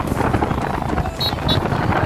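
Wind buffeting the microphone over road and engine noise while riding along a highway, with two short high beeps just past the middle.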